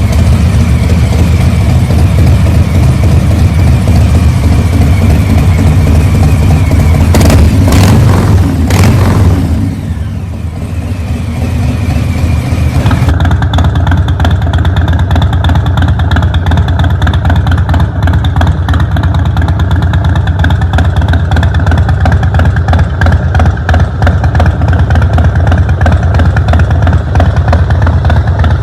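Harley-Davidson V-twin motorcycle engine running loudly through its exhaust. About a quarter of the way in there are a few sharp cracks and a brief drop in level. After that it runs steadily again, with a duller tone from about halfway.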